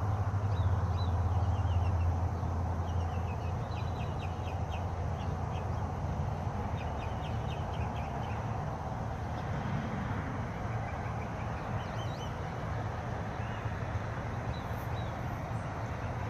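Small songbirds chirping, with quick runs of short high notes that come mostly in the first half. Under them is a steady rushing background and a low rumble that fades after the first couple of seconds.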